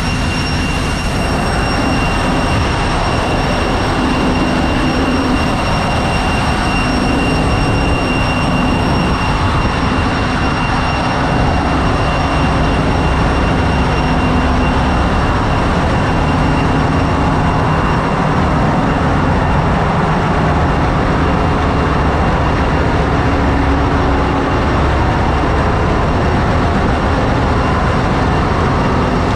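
Engine room machinery of a large tanker ship running: a loud, steady din with a low hum and constant high-pitched whines over it.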